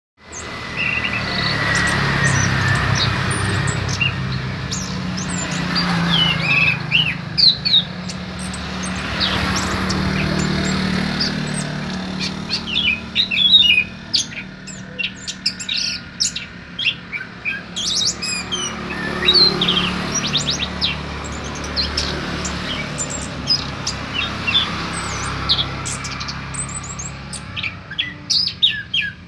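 A songbird singing busily, with many quick chirps and short trills, over a steady low hum.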